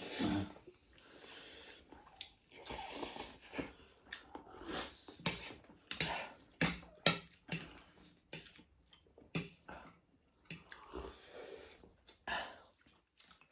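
Eating at a table: irregular clinks and taps of cutlery on dishes, with chewing in between.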